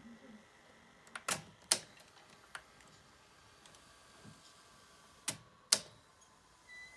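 Sharp mechanical clicks from a 1982 SABA VR 6028 video recorder's tape drive mechanism and controls being worked during a test run. There are two pairs of loud clicks, each pair about half a second apart, one a little over a second in and the other about five seconds in, with a few lighter ticks between.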